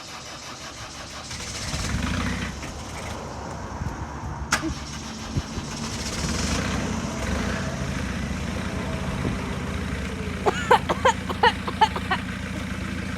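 1993 Vauxhall Carlton's diesel engine cranking over and catching after glow-plug preheat, swelling briefly as it fires, then running on with a steady low hum at idle. A run of short high squeaks comes near the end.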